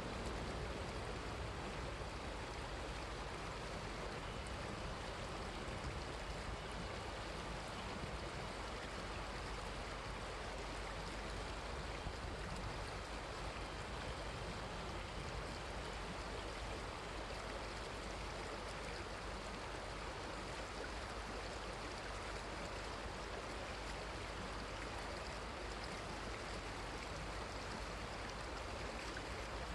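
Running river water: a steady rush of flowing water, even and unbroken.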